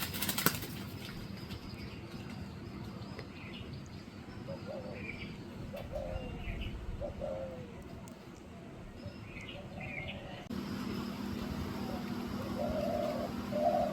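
Birds giving short, scattered calls at irregular intervals, with a sharp knock at the very start and a steady low hum that comes in abruptly about ten seconds in.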